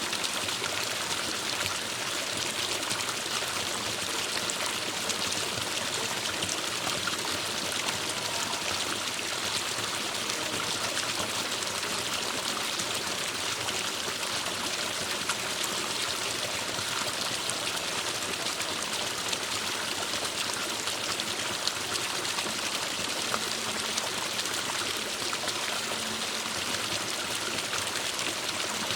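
Forest stream flowing steadily, a constant rush of water with fine trickling and splashing over stones.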